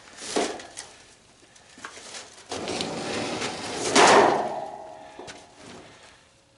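Parts of an old tanning bed being pulled and dragged apart: a short bang, then a longer scrape that ends in a loud bang about four seconds in, followed by a brief ringing.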